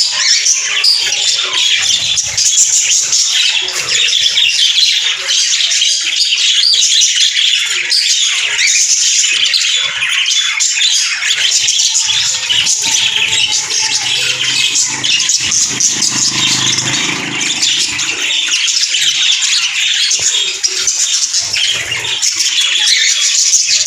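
A flock of caged budgerigars chattering and squawking continuously in a dense, high twitter. A low hum rises and fades for a few seconds in the middle.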